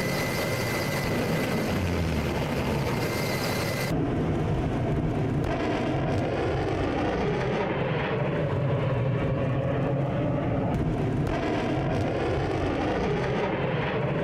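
Steady rumbling roar of ship-launched missiles' rocket motors, heard across several joined shots that each change the sound abruptly; a thin steady whine sits over the roar in the first few seconds.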